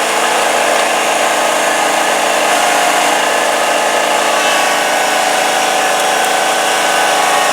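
A motor-driven machine running steadily at an even pitch, of the power-tool or small-engine kind, with no starts or stops.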